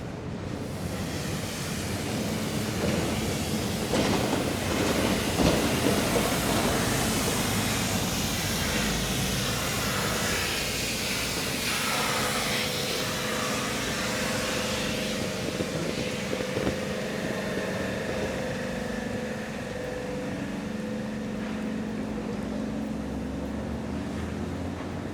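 A large vehicle passing close by in the street, its noise swelling over the first few seconds, then holding steady with a low hum underneath.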